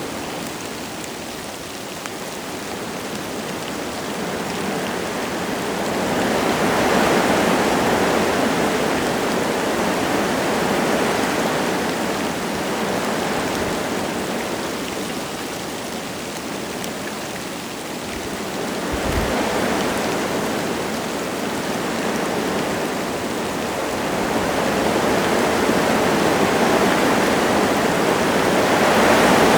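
Wind gusting through forest trees, swelling and easing in slow waves several seconds long, with light rain falling.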